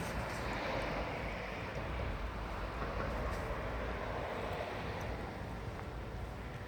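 A train rolling past on the rails, a steady rushing noise over a low rumble that eases off toward the end.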